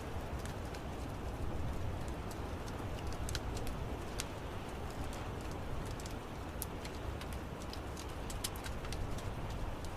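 Wood fire crackling in an outdoor fireplace: irregular sharp pops and snaps over a steady low rumble of burning.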